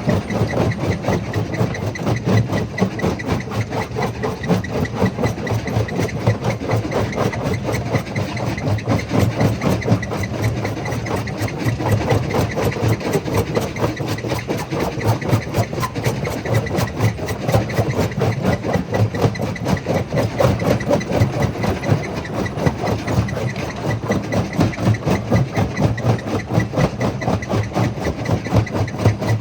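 Jaw crusher running steadily, its sound a fast, even pulsing that holds level throughout.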